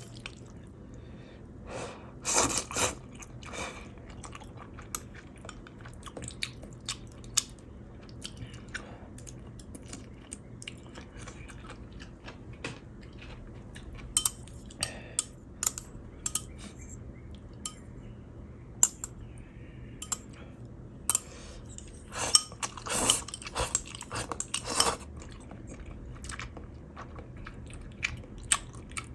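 Close-miked chewing and crunching of food, with many short sharp clicks and two louder, busier spells of chewing about two seconds in and again about twenty-two seconds in.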